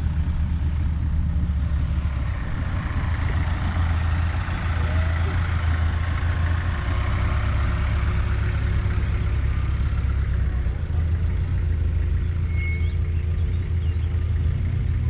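A vehicle engine idling steadily, a low even rumble with no revving.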